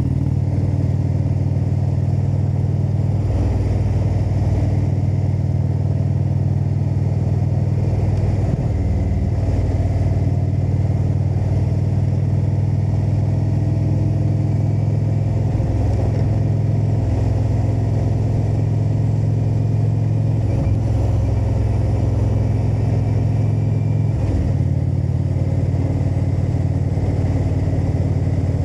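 Indian motorcycle's V-twin engine running steadily under way, with its note dropping and picking up again several times as the rider shifts gears or changes throttle, over a hiss of road noise.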